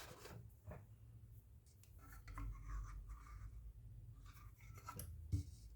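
Faint rubbing and scratching of hands working a phone's back cover and its adhesive, with a few light clicks and taps, the sharpest near the end.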